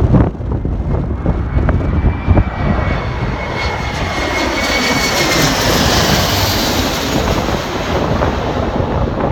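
Embraer regional jet flying low overhead, its turbofan engines swelling to a peak about halfway through, with a high whine that drops in pitch as it passes. Gusts of wind rumble on the microphone.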